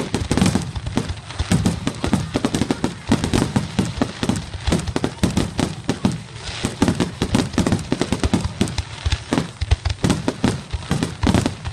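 Fireworks going off in a rapid, continuous barrage of bangs and crackles, several reports a second with no pause.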